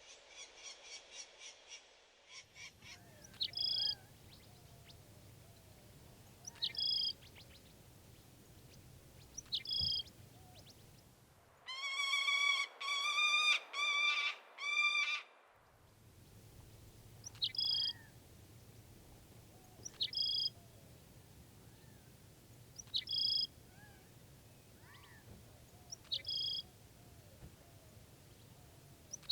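Birds calling: a quick run of high notes at the start, then a short high two-part chirp repeated about every three seconds. Near the middle comes a louder series of four or five drawn-out, harsh, pitched calls.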